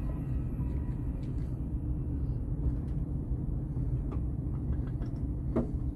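Steady low rumble of an OUIGO España Euroduplex TGV double-deck high-speed train running, heard from inside the carriage, with a few faint clicks.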